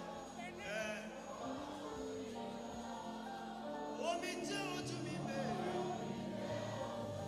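Live gospel band music with sustained keyboard chords playing under the minister, and short vocal phrases just under a second in and again about four seconds in.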